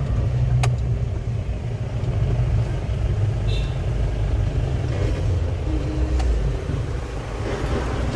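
A motor vehicle's steady low engine and road rumble, heard from a vehicle on the move, with a single sharp click about half a second in.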